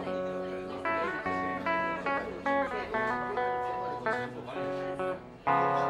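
Instrumental intro of a ballad on guitar: a melody of single plucked notes over held bass notes, with a fuller chord struck near the end.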